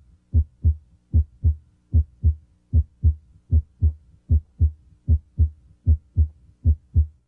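Normal heart sounds at the mitral area (cardiac apex), a steady lub-dub: the first sound (S1, mitral valve closure), usually the louder here, followed about a third of a second later by the second sound (S2). The rhythm is regular, about 75 beats a minute.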